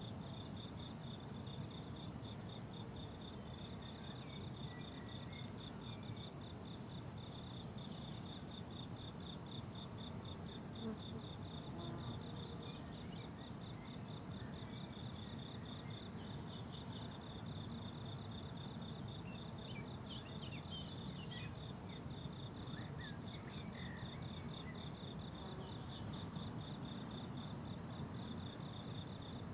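Crickets chirping on a meadow in a fast, even pulse of high-pitched notes, about three to four a second, breaking off briefly about eight seconds in before resuming.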